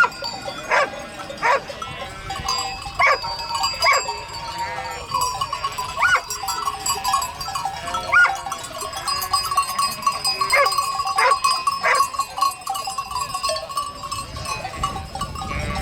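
A flock of sheep bleating, many short calls one after another and overlapping, over a steady high tone in the background.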